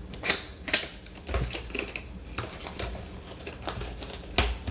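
A product box being opened and its packaging handled, giving a run of sharp clicks, taps and scrapes. Two loud clicks come in the first second and another near the end.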